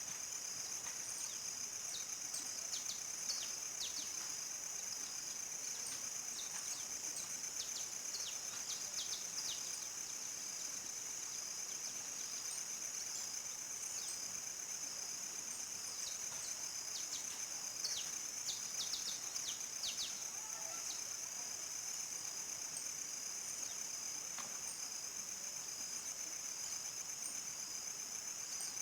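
Crickets chirring in a continuous high trill at nightfall in the countryside. Short, high, falling chirps come in clusters a few seconds in and again around two-thirds of the way through.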